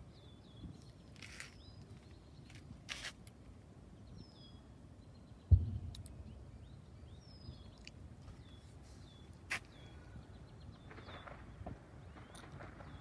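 A small bird chirping repeatedly in short, high, falling notes over quiet outdoor ambience, with a single sharp thump about five and a half seconds in.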